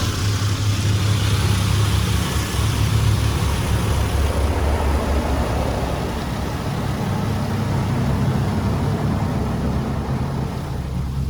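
Mark VII AquaJet XT touchless car wash running around the car, heard from inside the car: a steady rushing noise over a low hum, the high rushing thinning out near the end.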